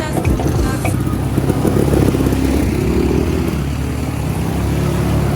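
A motor vehicle's engine running steadily, swelling a little about halfway through.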